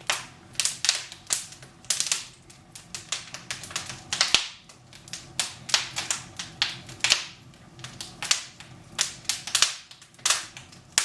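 Burning firewood crackling in a fireplace: irregular sharp pops and snaps, several a second at uneven intervals.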